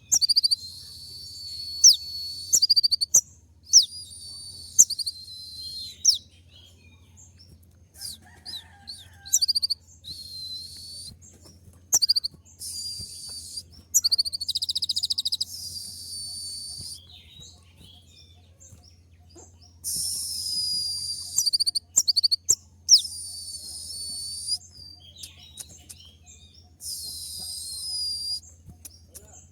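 Konin sunbird singing a rapid, very high-pitched song in phrases of one to three seconds, with sharp single chirps between them.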